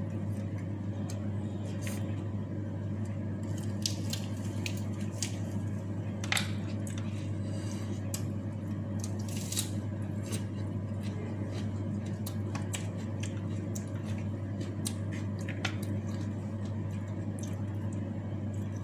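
Close-miked eating sounds: wet chewing and lip smacks as rice and raw vegetable leaves are eaten by hand, with scattered sharp clicks over a steady low hum.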